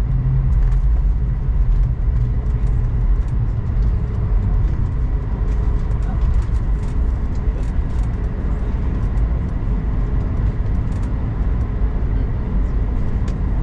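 Cabin noise of an Airbus A220-100 taxiing to the gate: a steady, loud low rumble of the engines at taxi power and the wheels rolling on the taxiway, with a faint hiss and light rattles above it.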